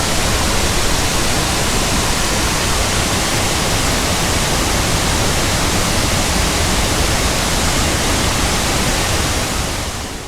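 Loud, steady roar of a waterfall, fading out near the end.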